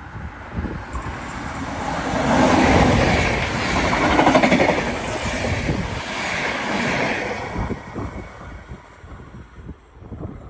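A train passing by: its running noise swells over about two seconds, stays loud for a few seconds, then fades away. Wind buffets the microphone throughout.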